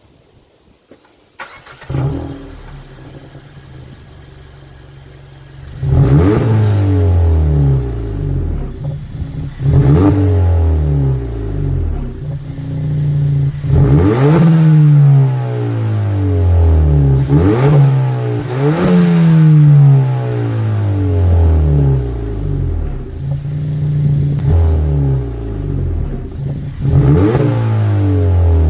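Suzuki Swift Sport ZC33S 1.4-litre turbo four-cylinder through an aftermarket Earl's muffler and racing center pipe: the engine starts about two seconds in and idles, then from about six seconds it is revved again and again, each rev rising quickly and falling back slowly.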